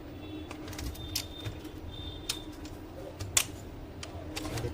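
Scattered sharp clicks and knocks as the plastic housing of an HP LaserJet M1005 printer is taken apart, with one louder click past the middle, over a steady low hum.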